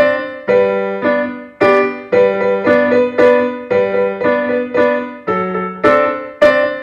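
Piano playing a piece in a steady rhythm, about two notes or chords a second, each struck and then dying away.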